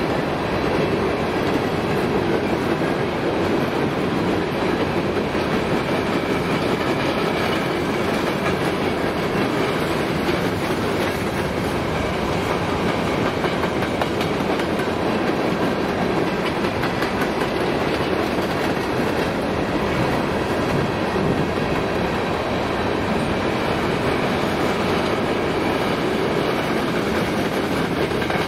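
CSX freight cars (hoppers, gondolas, tank cars and boxcars) rolling past at steady speed, their steel wheels clicking over the rail joints in a continuous, even clatter.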